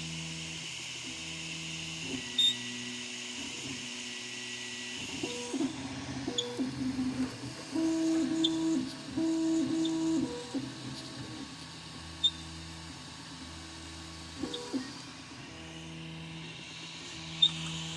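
Prusa i3 MK2S 3D printer's stepper motors singing at steady pitches that jump to a new note every half second to a second as the print head changes moves. The sound is louder a few seconds in, with a few sharp ticks scattered through. The owner finds the noise strange and links it to a printed front wall that comes out not flat.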